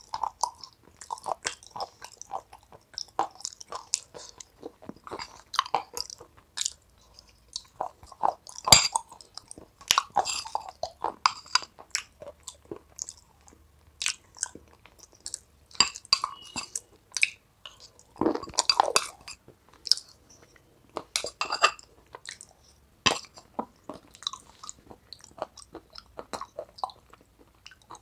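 Close-miked chewing and mouth sounds of someone eating a creamy dip by the spoonful: a dense, irregular run of short clicks and crackles, with a few louder clusters.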